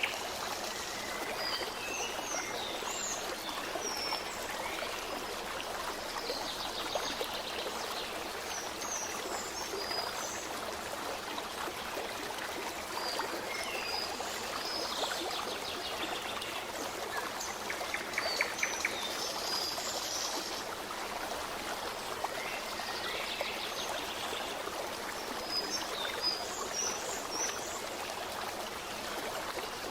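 Steady babbling of a stream, with birds chirping briefly and often over it and a few quick trills.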